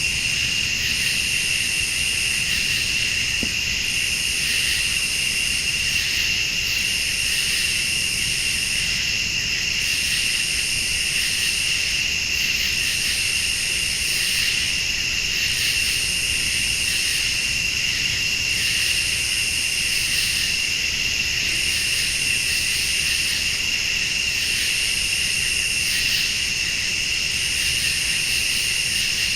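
Night chorus of crickets and late-summer insects: a steady, high, unbroken trill, with a still higher insect buzz that comes on for about two seconds and drops out for about a second, over and over.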